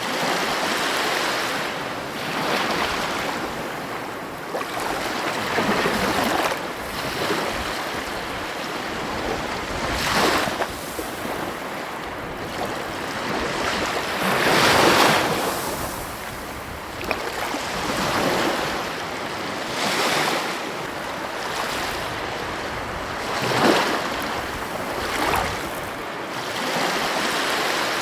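Ocean waves breaking and washing in, a steady hiss of surf that swells with each wave every few seconds. The loudest breakers come about 10 and 15 seconds in and again near 24 seconds. A little wind noise runs under it.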